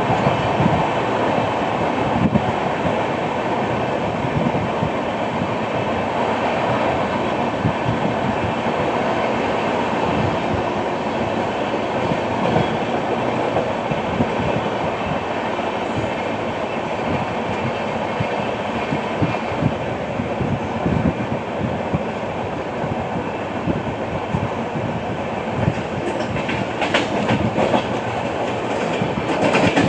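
Passenger train coaches of the Howrah–CSMT Mail running at speed, wheels rumbling and clattering steadily over the track with a repeated knock that the uploader puts down to a flat wheel. Sharper, brighter clicks come near the end.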